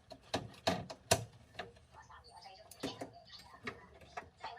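Irregular sharp clicks and taps, about a dozen, the loudest a little after a second in: small tools and plastic and metal parts being handled while a new circuit board is fitted into a gas combi boiler.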